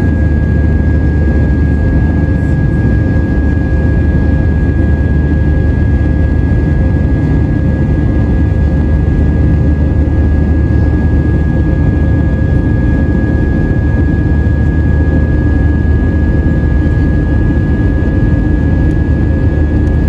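Airbus A320 jet engines and airflow heard from inside the cabin in flight: a loud, steady roar with a constant high whine over it.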